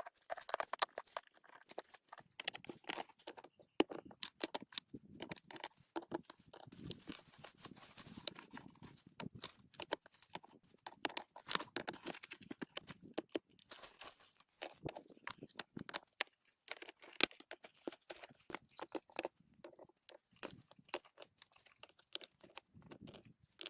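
Stones knocking and scraping against each other and crunching into soil as rocks are hand-set in a dry-stack wall: scattered, irregular clicks and knocks with short gritty scrapes between them.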